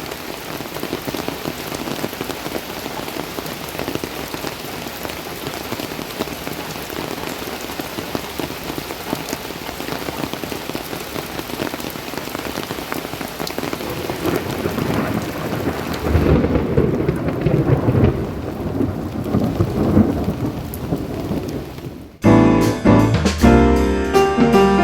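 Steady heavy rain falling, with a long low rumble of thunder building from about two-thirds of the way in. Near the end the storm cuts off abruptly and music with piano and drums begins.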